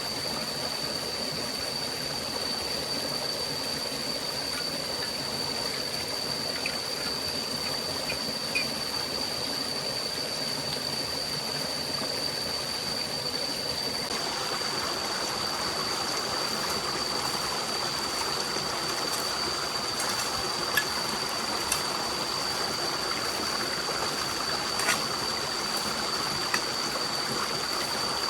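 Steady rushing of a forest stream, with a constant thin high-pitched tone over it. About fourteen seconds in the rush grows brighter, and a few sharp clicks come in the second half.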